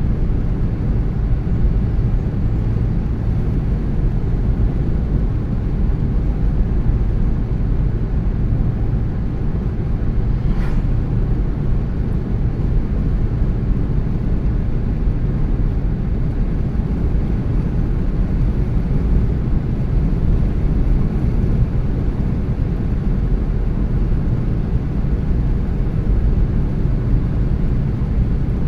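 Steady low rumble of a car driving along a road: engine and tyre noise. A brief faint tick comes about ten seconds in.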